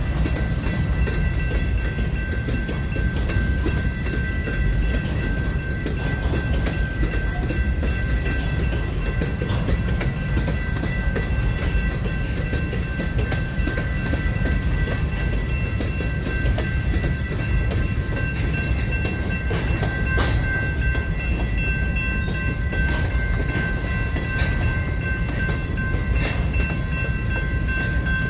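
Train rolling by: a steady low rumble of railcars with scattered clicks from the wheels, and a thin, steady high-pitched whine over it.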